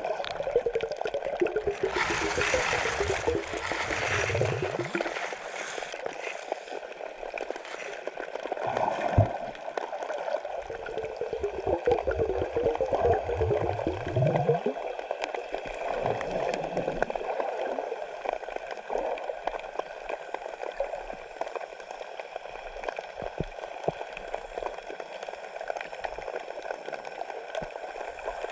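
Water gurgling and trickling, with uneven swells that are loudest in the first few seconds.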